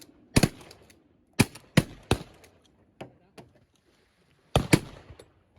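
A volley of shotgun blasts from several hunters firing at flaring snow geese: about seven loud shots, some in quick pairs, with a couple of fainter shots between them.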